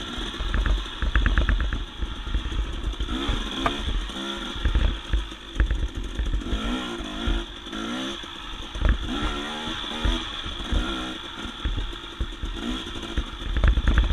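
Dirt bike engine revving up and down over and over as it is ridden along a rough, technical single-track trail, the throttle opening and closing through the tight sections.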